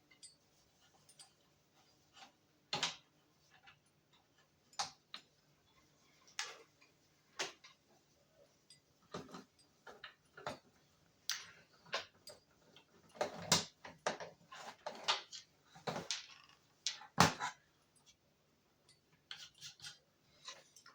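Irregular light clicks, taps and small knocks of small plastic and metal parts being handled and fitted on a truck's instrument cluster. The clicks are busiest and loudest in the second half.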